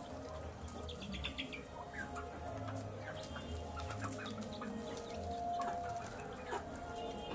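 Domestic chicks peeping and clucking while feeding, with many short chirps and scattered short clicks over a low steady hum.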